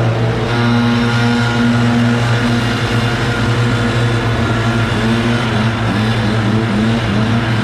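Engines of leaf clean-up machinery running steadily, one holding an even pitch while a second engine's pitch wavers up and down.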